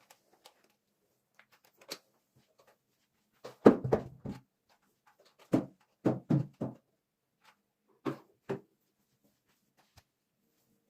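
A series of short knocks and thumps, like objects being set down or handled during housework, in three clusters: the loudest about four seconds in, then a run of several around six seconds, then two near the end.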